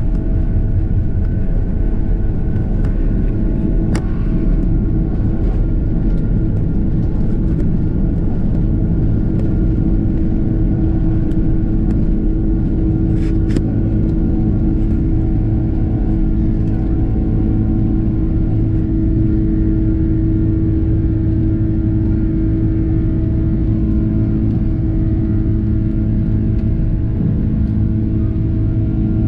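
Engine and airflow noise inside the cabin of an Airbus A330-300 with Rolls-Royce Trent 700 engines: a loud, steady rumble with a steady hum over it, and a couple of brief clicks.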